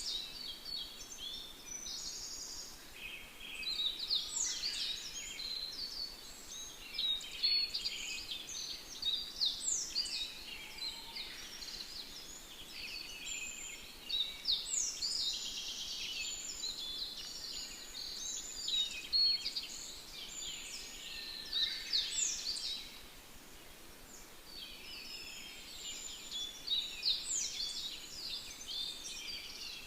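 Several songbirds singing at once: a dense chorus of quick, overlapping high chirps and trills, easing into a brief lull a little past the middle before picking up again.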